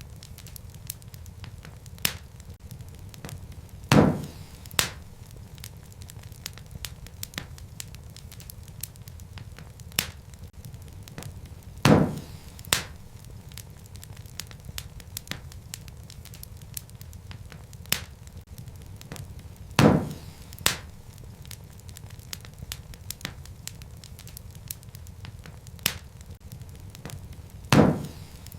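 Wood fire in a fireplace crackling over a low steady rumble of flame, with frequent small snaps and a loud pop about every eight seconds.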